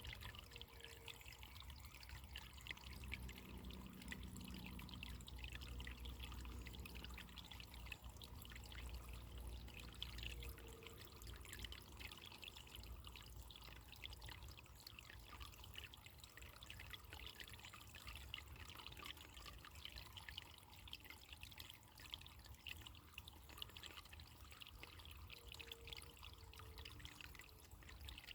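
Faint, steady trickling of running water, a continuous fine patter of small splashes.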